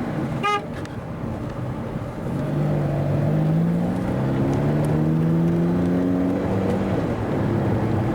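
Car engine heard from inside the cabin, pulling in one gear with its note climbing slowly for about four seconds, then easing off near the end, over steady road noise. A short beep sounds about half a second in.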